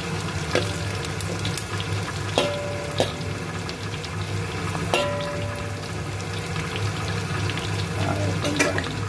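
Sliced onions, garlic and red chillies sizzling in hot oil in a wok as they are stirred, with a metal fork knocking against the wok about five times, two of the knocks ringing briefly. A steady low hum runs underneath.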